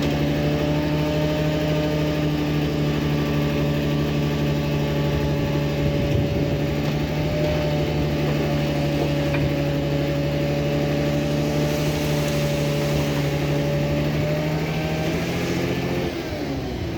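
Bulldozer's diesel engine running steadily with a constant even drone; about a second before the end its note falls as the engine slows.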